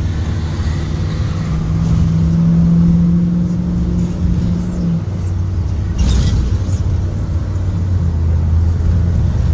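2023 Blue Bird Vision school bus engine running steadily under way. Its tone holds higher for a few seconds, then drops to a lower pitch about halfway through.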